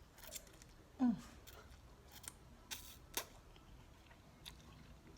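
Close-up eating sounds: several sharp mouth clicks and smacks while chewing, with a short falling "mm" hum about a second in.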